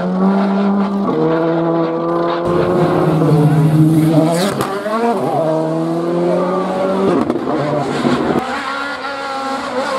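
Rally car engine running hard, its note holding steady and then jumping in pitch several times with gear changes.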